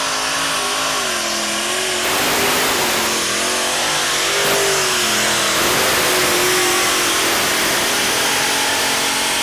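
Modified pulling tractor's engine running loud at high revs, its pitch wavering up and down over a dense roar.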